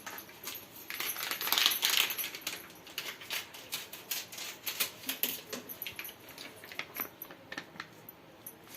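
Spoon clicking and scraping against a mixing bowl as kebab powder is stirred into a thick chicken marinade, many quick irregular clinks, with a brief rustling hiss about a second in.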